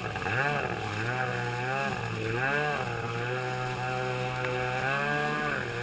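Kawasaki X2 jet ski's two-stroke engine running under throttle, its pitch rising and dipping a few times and holding steady in the middle stretch.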